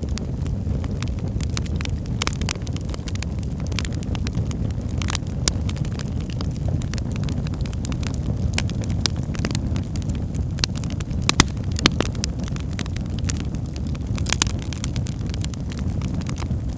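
Wood fire burning in a fireplace: a steady low rumble of flames with irregular crackles and pops from the burning logs, a couple of louder pops about two-thirds of the way through.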